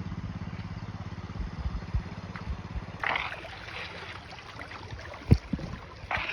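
A vehicle engine running steadily, cutting off abruptly about three seconds in. It gives way to scattered knocks and one loud, sharp thump about two seconds later.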